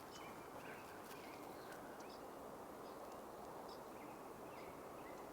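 Wild birds giving short high chirps, repeated every half second or so, over a steady rush of wind.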